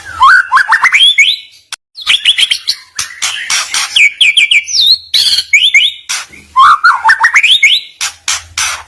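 Songbird singing without pause: quick runs of rising whistled notes mixed with harsh, rasping notes, in phrases that follow one another with hardly a break.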